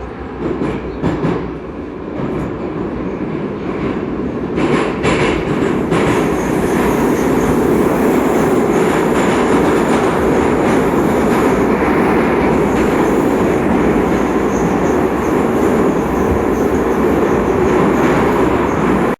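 81-722.1 metro train running through the tunnel, heard from inside the car: a steady rumble of wheels on rail. A few clacks of wheels over rail joints come in the first six seconds while the noise grows louder, and it then holds steady.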